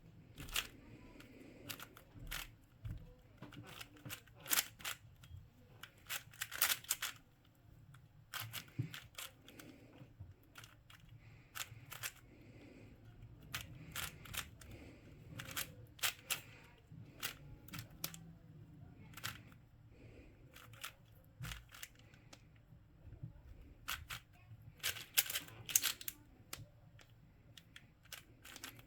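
A plastic puzzle cube being turned by hand in a solve: quick clicking of its layers snapping round, in irregular runs with denser flurries now and then.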